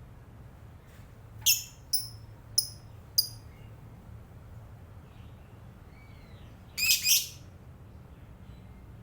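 Lovebird calling. There is a high-pitched call about one and a half seconds in, then three short downward-sweeping chirps in quick succession. A few faint calls follow, then a louder double call about seven seconds in.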